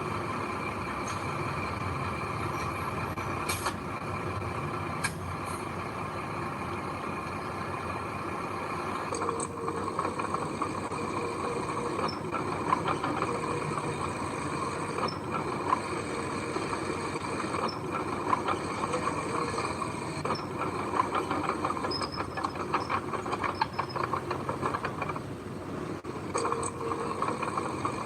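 Heavy diesel construction machinery running steadily with a whining drone. From about nine seconds in, many sharp metallic clanks and rattles are heard, typical of crawler tracks or steel parts knocking under load.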